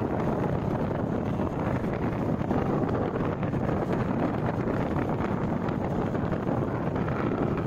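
Wind rushing over a microphone held out of a moving passenger train's window, mixed with the steady running noise of the train.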